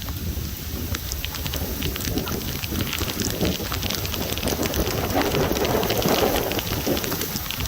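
Heavy thunderstorm rain pouring steadily, with many sharp taps of drops striking close to the microphone and a low rumble of gusty wind buffeting it.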